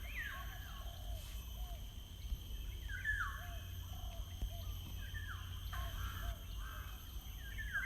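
Birds calling in the open: repeated harsh calls, each dropping in pitch, come every second or two, with softer, lower calls between them, over a steady low rumble of outdoor ambience.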